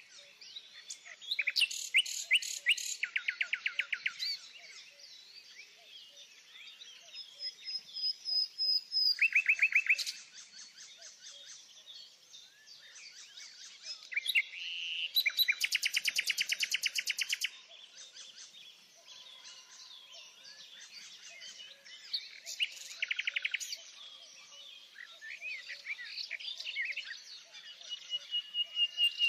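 Songbirds singing: loud, rapid trilled songs come four or five times, several seconds apart, over a quieter background of chirping.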